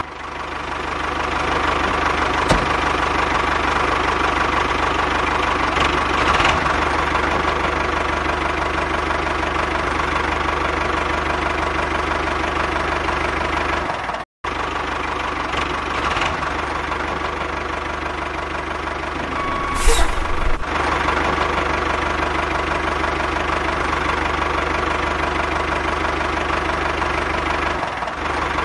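A steady engine-like motor sound running at an even pitch. It cuts out completely for a moment about halfway through, and there is a short louder burst a few seconds later.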